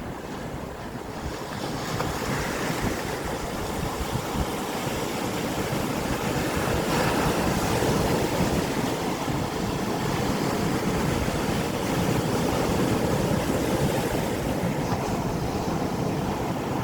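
Sea waves breaking and washing onto the shore in a continuous rush that swells about two seconds in and again around the middle, with wind buffeting the microphone.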